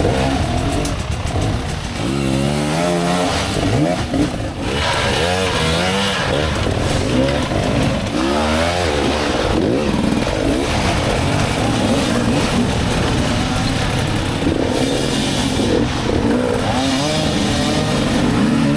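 Dirt bike engine revving up and falling back again and again as the throttle is worked, the pitch climbing and dropping every second or so.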